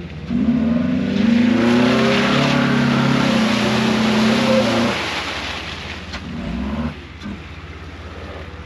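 An off-road vehicle's engine working hard at high revs for about five seconds as it drives through deep holes, then easing off to quieter, steady running.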